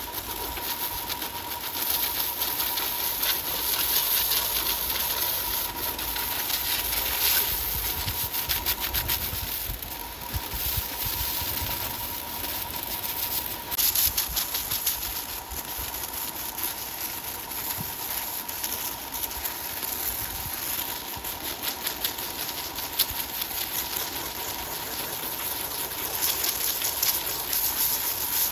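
Sawmill machinery running steadily, with a high hiss and a thin steady whine over a low rumble, its level rising and falling a little.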